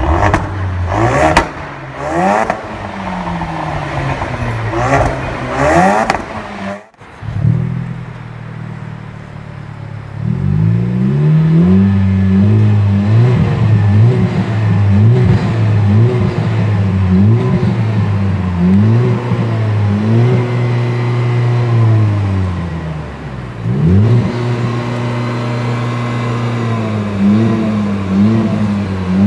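Turbocharged four-cylinder car engine blipped repeatedly from idle through the exhaust, each rev rising and falling back. There are sharp cracks among the revs in the first few seconds, then a brief cut, followed by a long series of revs from a steady idle.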